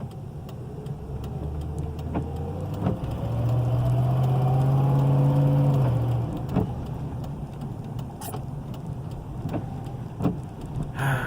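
Car engine running under load while pushing a stalled car, swelling in loudness and rising in pitch about three seconds in, then easing off about six seconds in. Scattered light clicks are heard throughout.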